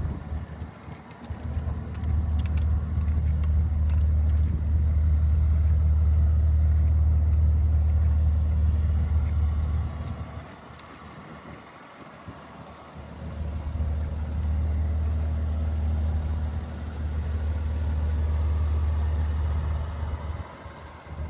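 Turbocharged Toyota Land Cruiser FZJ80's 4.5-litre straight-six engine idling steadily. It swells and fades in loudness, dropping away for a few seconds around the middle before coming back up.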